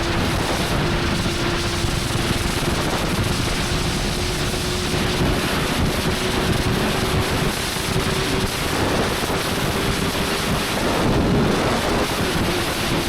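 Motorcycle engine holding a steady cruising note under heavy wind rush on the microphone. The engine note wavers and shifts about two-thirds of the way through before settling again.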